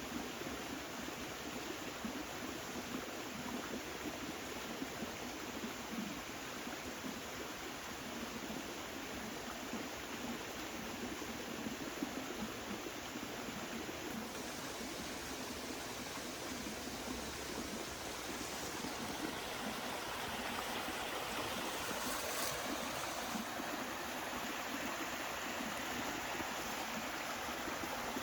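Steady rushing of a flowing stream, a little louder in the second half.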